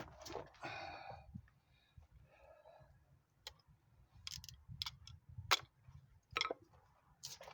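About six sharp metal taps and clicks, irregularly spaced over the last four seconds, the loudest about halfway through: hand tools knocking against the front suspension parts during the teardown.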